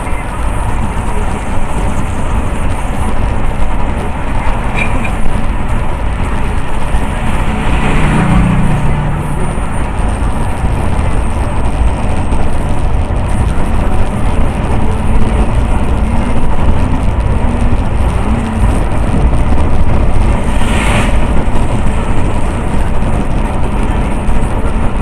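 Steady road traffic noise from a busy multi-lane highway, with vehicles passing; a louder pass about eight seconds in and another about twenty-one seconds in.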